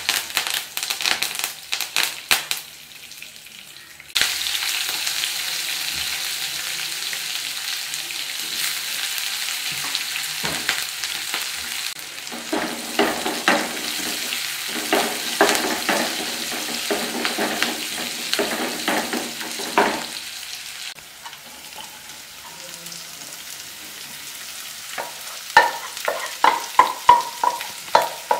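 Curry leaves crackling and spattering in hot oil in a non-stick kadai, turning to a louder steady sizzle about four seconds in. A wooden spatula scrapes and stirs the tempering in short repeated strokes, in two spells.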